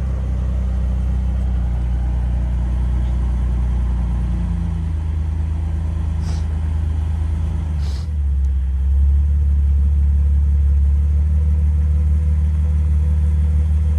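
Jeep engine running at low speed while crawling a rock trail. Its note shifts about four seconds in and grows louder a little after the halfway point.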